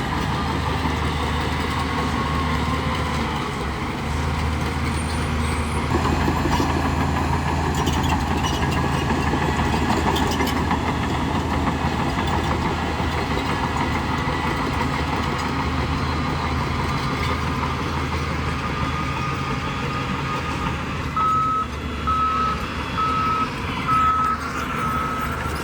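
Heavy earthmoving machinery's diesel engine running steadily. Near the end a reversing alarm starts beeping in an even rhythm.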